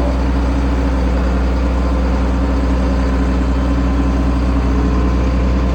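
International Harvester 1566 tractor's turbocharged six-cylinder diesel running steadily under load, pulling a cultivator in the field.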